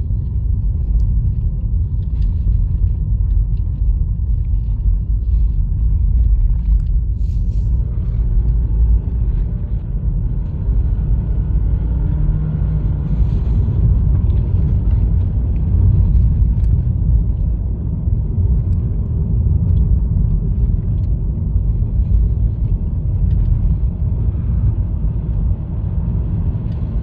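Steady low road rumble inside a Honda Fit's cabin while driving: engine and tyres on a snowy winter highway.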